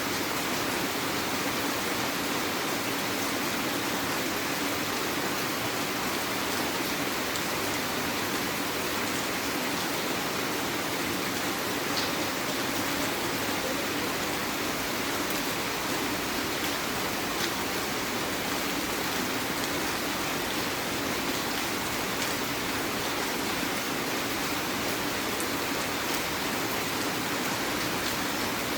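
Heavy rain falling steadily, an even hiss that does not let up, with a couple of faint sharp drop ticks.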